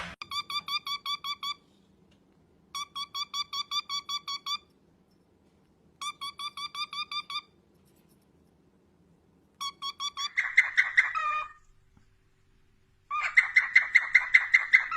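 Ringtone-like trilling beeps: rapid, evenly spaced pulses in five groups of about a second and a half each, with pauses between them. A harsher, lower chirping joins in over the last two groups.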